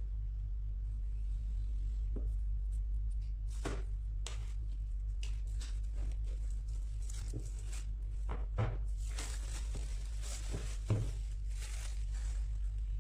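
Packaging of a boxed iPad Pro being handled and opened: scattered light clicks and taps, with a stretch of tearing and rustling of wrapping about nine to twelve seconds in. A steady low hum runs underneath.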